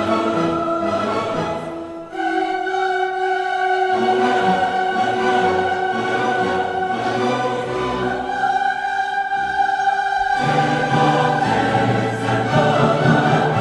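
A choir singing slow, long-held chords, the harmony moving to a new chord a few times.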